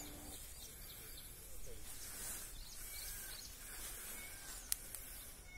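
Quiet outdoor ambience: a bird gives short chirps about once a second over a faint high hiss, with one sharp click near the end.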